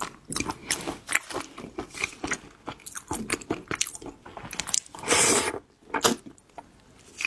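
Close-miked biting and chewing of whole red shrimp: many quick, irregular crunching clicks. A louder half-second rush of noise comes about five seconds in.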